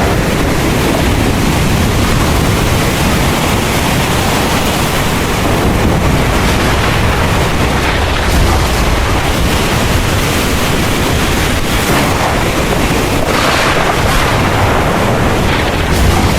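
Heavy rain pouring steadily, with a deep low rumble underneath and a few louder swells of noise near the end.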